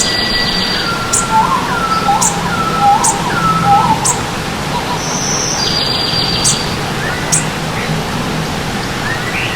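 Several songbirds calling over the steady rush of a stream: a run of about four short whistled notes, thin high chirps every second or so, and a buzzy trill at the start and again about halfway through.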